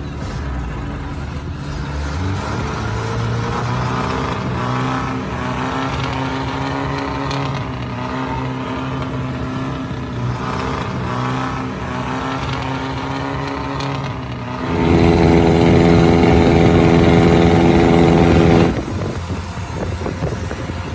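A small engine running steadily, its pitch wandering up and down. About 15 seconds in, a much louder engine runs close by for about four seconds, then drops away.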